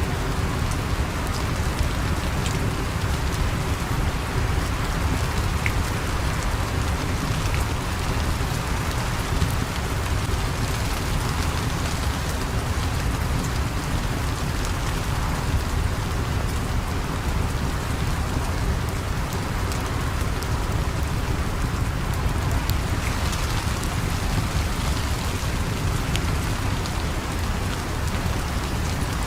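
Steady rain falling, with a few faint sharp crackles of a fire now and then.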